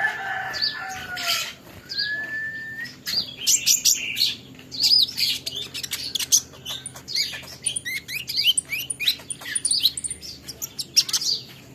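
Young kolibri ninja sunbird twittering: a dense run of rapid, high chirps and short trills, with two longer whistled notes in the first three seconds.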